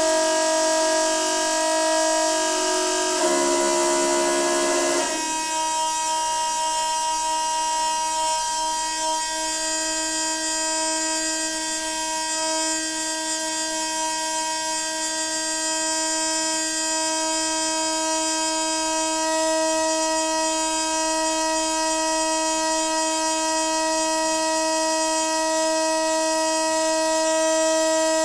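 Noisy water pipe humming: a loud, steady horn-like drone that wavers briefly about three seconds in, then settles back to one even pitch.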